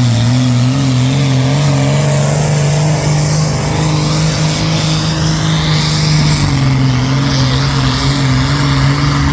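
Hot stock class pulling tractor's diesel engine running at high, steady revs under full load. Its note wavers slightly in the first couple of seconds, then holds steady.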